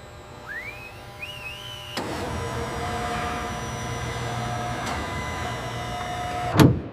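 A machine running: a short rising whine, then a click about two seconds in and a steady mechanical whirring hum with a held tone, ending in a loud clunk near the end.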